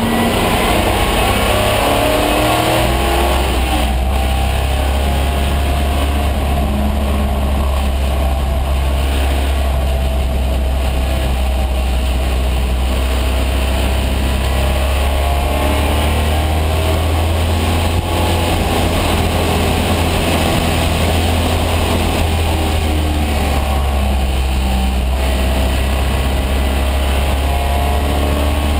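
1974 AMC Javelin AMX race car's V8 engine running hard under load at track speed, heard from inside the stripped cabin as a loud, steady low drone mixed with wind and road noise.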